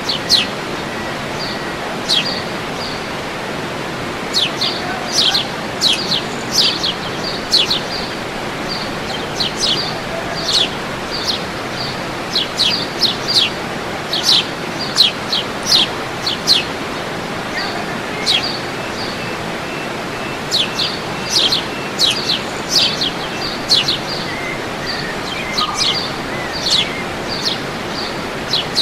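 Birds calling with many short, sharp downward-sweeping chirps, in bouts, over the steady rushing of waterfall water.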